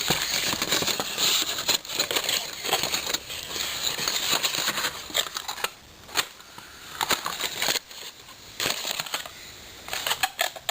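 Packaging of engine parts being handled and opened: crinkling and crackling for about five seconds, then scattered clicks and knocks as the parts are handled.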